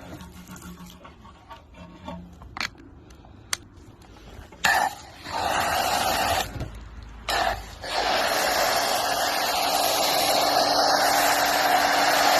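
Car wash equipment starting up: a loud rushing hiss that starts abruptly about five seconds in, cuts out twice, then runs steadily and slowly grows louder, after a few sharp clicks in the quieter first part.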